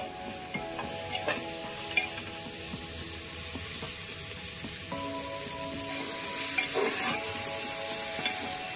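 Chopped vegetables sizzling as they fry in oil in an open pressure cooker, stirred with a spatula that scrapes against the pot now and then.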